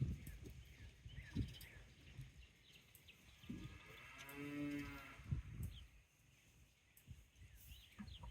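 A single cow mooing once, one call of about a second and a half near the middle, its pitch rising slightly and falling away.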